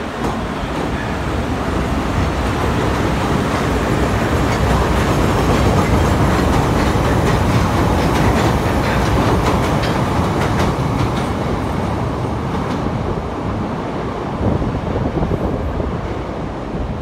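CTA 2600/3200-series 'L' rapid transit train departing along elevated track. A rumble of wheels on rail builds as it passes close by, with clicking over the rail joints at its loudest, then eases off as it pulls away.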